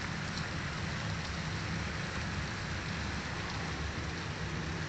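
Fairly heavy rain falling steadily on pavement, an even hiss.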